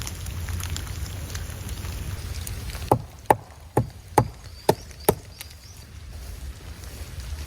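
Six sharp knocks in quick succession, about two a second, a little after the middle, over a steady low rumble like wind.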